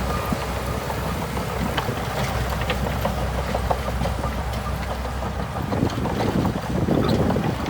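Shantui DH17C2 bulldozer's diesel engine running steadily under load, a low rumble with scattered clicks and clanks, growing louder about two-thirds of the way in. Wind buffets the microphone.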